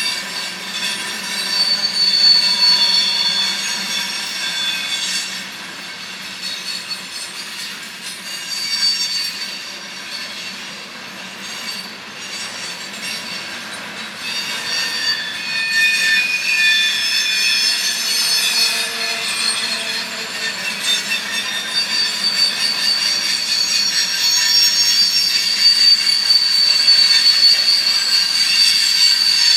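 A train rolling past with its steel wheels squealing against the rails: several high, drawn-out squeals that overlap and shift in pitch, growing louder over the second half.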